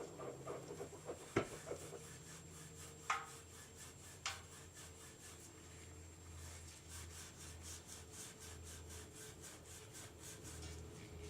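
Scotch-Brite abrasive pad scrubbing corrosion and buildup off a metal distributor shaft in quick back-and-forth strokes, about three a second. A few sharp clicks come in the first half.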